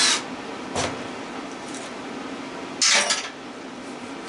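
Metal clinks from parts of a scrap electric motor and hand tools being handled: a light click about a second in and a short, louder metallic clatter about three seconds in, over a steady low hum.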